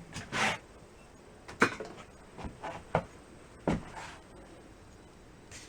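Scattered knocks and clinks, about six over a few seconds, from hands-on work on a partly disassembled engine and its metal parts.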